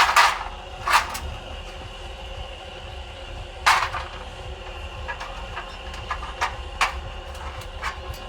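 Scattered sharp knocks and clicks of cleaned engine intake parts being handled, the loudest at the start, about a second in and just before four seconds, over a steady low hum.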